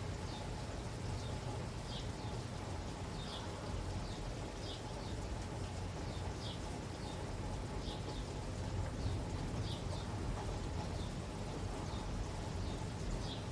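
Steady rain falling, with a small bird giving short, high chirps that dip in pitch, repeating about once a second, over a low steady rumble.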